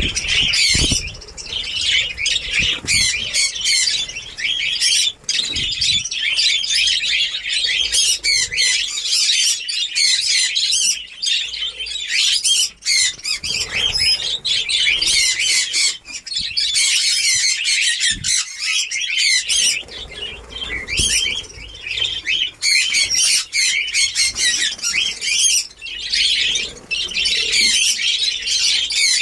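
A flock of budgerigars chattering and squawking, many birds calling at once in a dense, continuous din with a few brief lulls.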